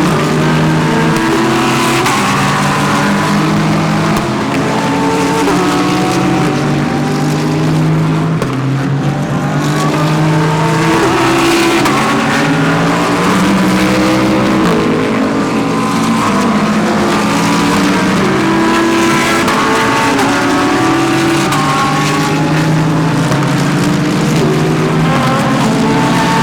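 GT3 race cars running through a corner one after another, several engines overlapping. Their pitch steps up and down in short jumps as they shift gears.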